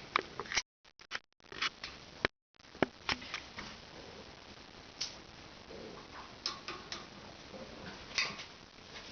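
A cat's claws and paws clicking, tapping and scratching on gymnastic wall bars as it climbs, in irregular scattered taps with a few louder clusters. The audio drops out completely twice in the first three seconds.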